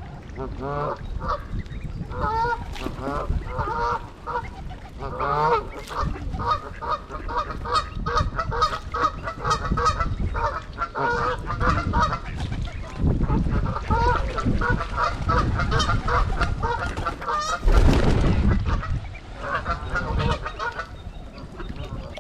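Canada geese honking repeatedly, many short calls overlapping from several birds, over a low rumble. A brief loud burst of noise cuts across the calls about three-quarters of the way through.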